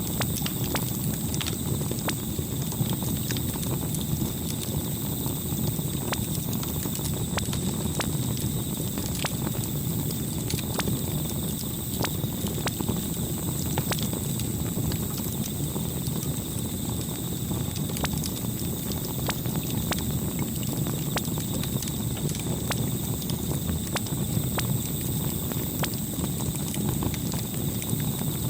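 Campfire burning: a steady low rush of flames with frequent irregular crackles and pops from the burning wood.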